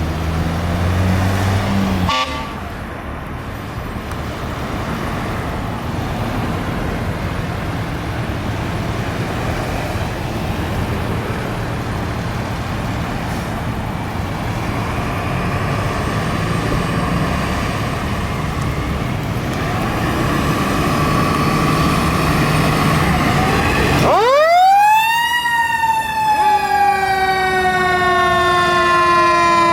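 Fire trucks running past with a steady engine rumble, then near the end a fire truck siren winds up sharply and slowly winds back down, with a second siren tone joining in.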